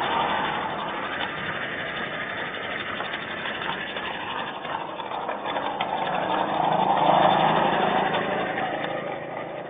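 A vehicle passing: a steady rush of engine and tyre noise that swells to its loudest about seven seconds in, then fades away.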